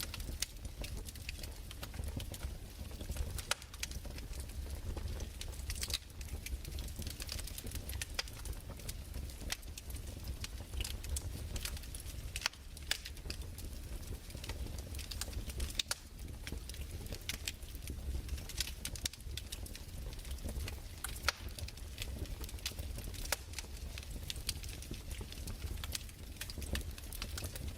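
Crackling fireplace: irregular small pops and snaps of burning wood over a low, steady rumble.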